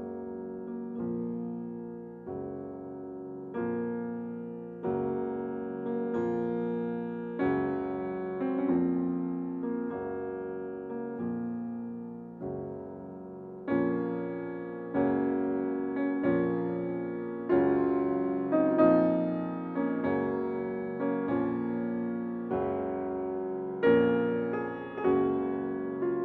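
Background piano music: slow, gentle chords struck about once every second and a bit, each ringing and fading before the next.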